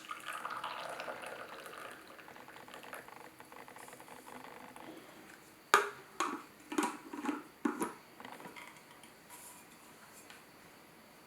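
Water poured for about two seconds, fading off, then a quick series of five or six sharp clinks and knocks of dishes or utensils being handled about six seconds in.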